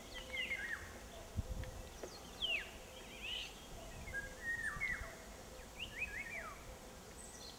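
Small songbirds chirping: short, quick calls that slide in pitch, a few at a time and scattered throughout, over a faint low rumble.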